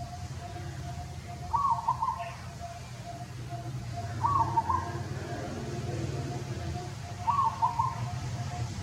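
Three short animal calls, each a quick run of notes, repeating about every three seconds over a low steady rumble.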